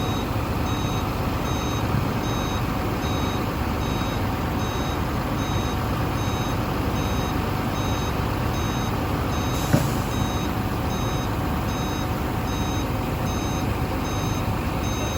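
Truck reversing alarm beeping steadily, about three beeps every two seconds, over a heavy diesel engine running. A single sharp knock sounds about ten seconds in.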